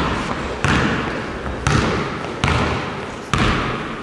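Basketball bouncing on a hard gym floor, five sharp bounces at a little under one a second, each followed by a short echo.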